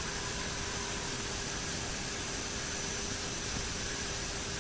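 Steady cockpit noise of a turboprop airliner in flight: an even hiss of airflow and engines with a faint constant hum and a thin high whine.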